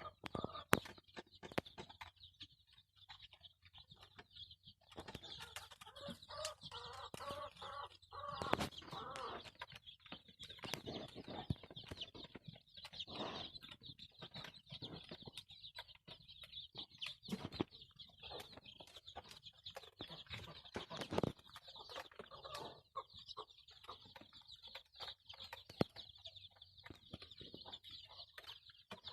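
Desi chickens clucking, with frequent short clicks and a steady high-pitched tone throughout.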